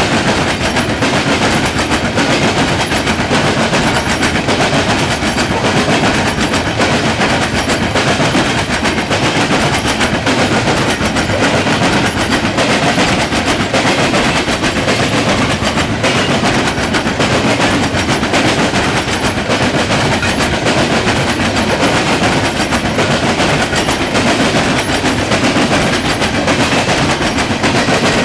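Norfolk Southern coal train's cars rolling past: a steady rumble and hiss with rapid, continuous clacking of steel wheels over the rail joints.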